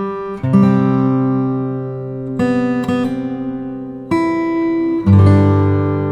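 Background music on acoustic guitar: chords strummed about every second or two and left to ring out.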